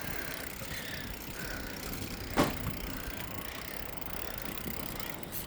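Bicycle rolling over a bumpy sidewalk, with steady tyre and wind noise and one sharp knock about two and a half seconds in as the bike jolts over a bump.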